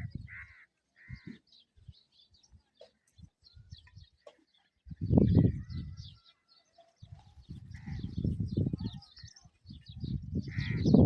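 Small birds chirping and calling throughout. A low rumbling noise comes and goes, loudest about five seconds in and building again towards the end.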